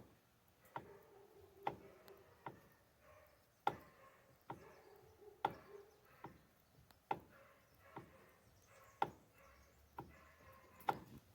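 Sharp clicks from a Mitsubishi L200 Triton's steering, about one a second, as the steering wheel is turned, with faint rubbing between them. The click sounds much like a seized bearing.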